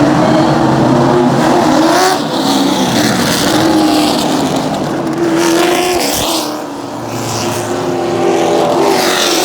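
Race car engines running hard as several cars lap the track, their pitch climbing and falling again and again as they accelerate and pass by.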